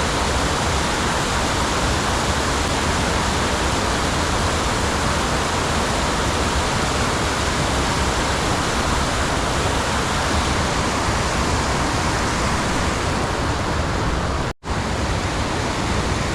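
Steady rush of flowing creek water, cut by a brief break about fourteen and a half seconds in.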